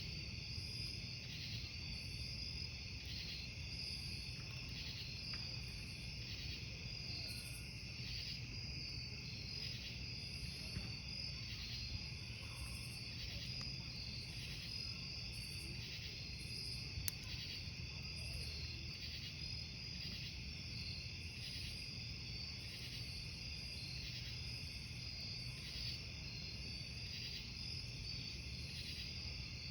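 Crickets chirping in a steady pulsing chorus, about one pulse a second, over the low steady rumble of a burning wood campfire. A single sharp crackle pops from the fire a little past halfway.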